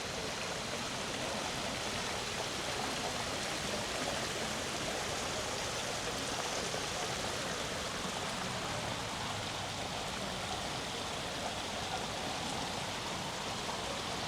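Steady, even rush of running or falling water.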